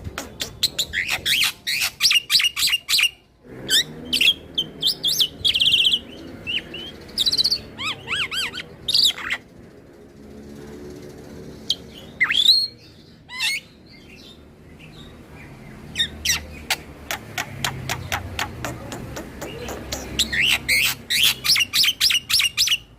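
Black-winged starling (jalak putih) singing a long continuous song. Rapid runs of sharp chirps and clicks open and close the stretch, with whistled glides and warbling phrases between them.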